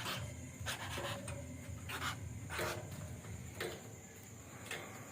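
Woodpecker chick giving several short, breathy, raspy calls spaced about a second apart.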